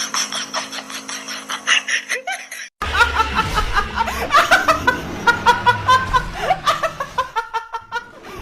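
People laughing in quick repeated bursts. The sound cuts off abruptly about three seconds in, and a new stretch of laughter starts, pitched and pulsing several times a second.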